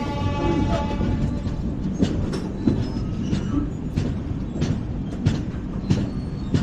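LHB passenger coaches running at speed: a steady rumble of wheels on rail, broken by sharp irregular knocks of the wheels over rail joints about once a second.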